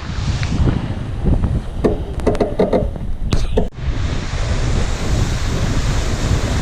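Wind buffeting the microphone and water rushing along the hull of a Volvo 65 racing yacht sailing fast. A cluster of short clicks and knocks comes about two to three and a half seconds in, then a brief drop before the rush carries on.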